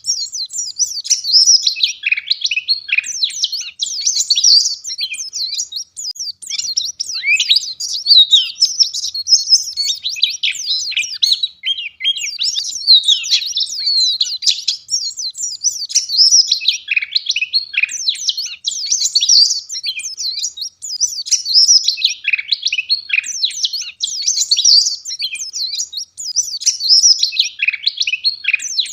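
White-eye (pleci, Zosterops) in full song: a rapid, high-pitched warbling chatter delivered almost without pause, in phrases of a second or two separated by brief breaks.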